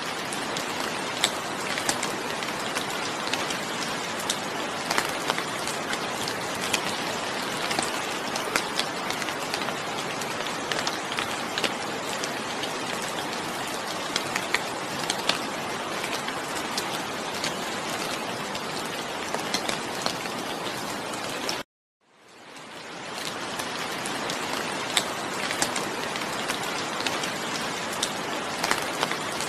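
Steady rainfall: an even hiss with many distinct, sharp drop hits. It cuts out suddenly about three quarters of the way through and fades back in over a couple of seconds, where the recording loops.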